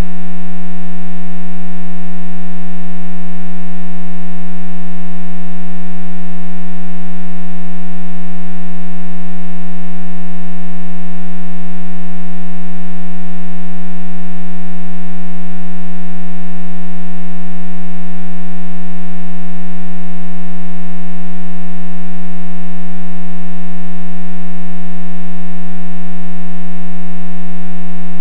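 Loud, steady electrical buzzing hum, rich in overtones and never changing in pitch.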